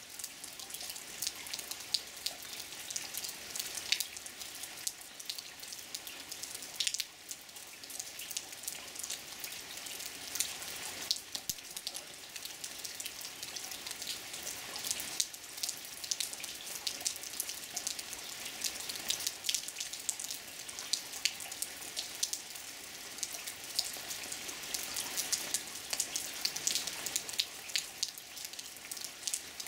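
Rain falling: a steady hiss full of separate drops ticking, some louder than the rest.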